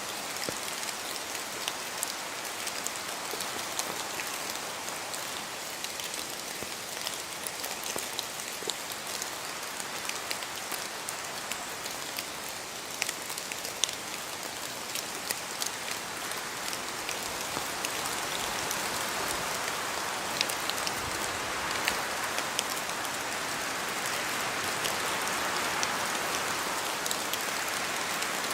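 Steady rain falling in a spruce forest, with many separate drops pattering on leaves and the ground. Wind through the trees swells about two-thirds of the way in.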